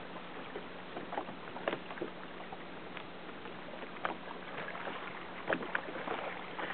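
Light splashing and water sloshing around a kayak: short irregular splashes over a steady hiss, with a slightly louder cluster of splashes about five and a half seconds in.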